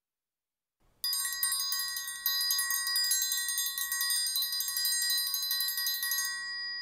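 Metal triangle struck in a fast roll with a metal beater, ringing continuously. It starts about a second in and stops shortly before the end.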